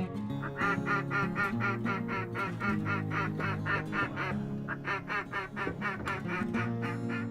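A rapid run of duck quacks, about five a second, in two long strings with a short break about four seconds in, over acoustic guitar music.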